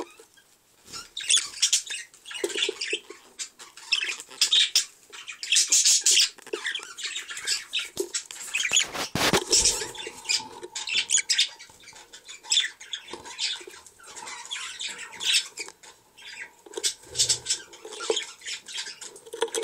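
Raspy bird calls in many short, irregular bursts from the nest box, without a steady rhythm.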